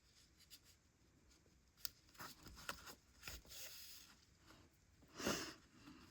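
Faint rustling and soft clicks of yarn being handled and pulled through a crocheted toy, with a louder brushing swish about five seconds in.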